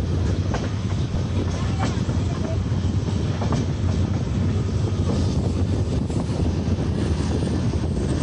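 Steady running noise of a passenger express train heard from inside its coach at the open door: wheels rolling on the rails in a continuous low rumble, with a few faint clicks.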